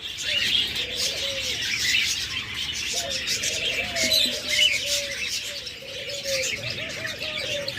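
Doves cooing in a run of low, arched coos, one after another, over a steady background of high chirping from small cage birds.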